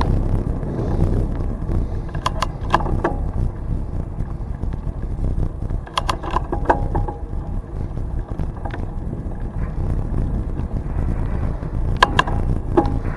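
Riding a bicycle on a trail: a steady low rumble of wind and tyre noise, with pairs of sharp clicks or knocks about half a second apart, three times.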